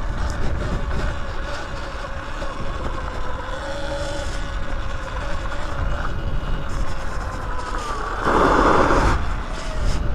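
Sur-Ron Light Bee X electric dirt bike riding along, its electric motor giving a steady whine that drifts slightly in pitch, over low wind rumble on the microphone. About eight seconds in comes a short loud burst of noise.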